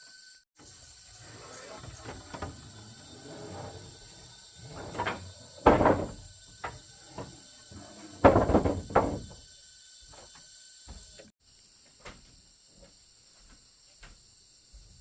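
Irregular knocks and scraping from something being handled, with two loud bursts of a second or so, about six and eight seconds in.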